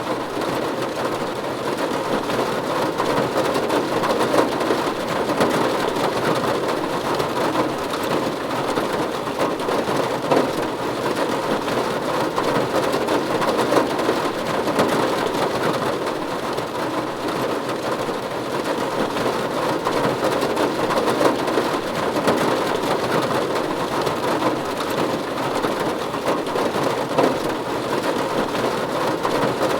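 Steady rain falling on a roof: a dense, even hiss of drops with many small individual drop hits and no let-up.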